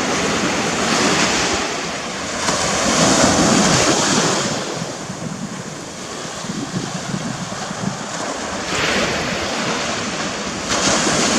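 Surf washing up the beach in repeated swells, loudest a few seconds in, with wind buffeting the microphone.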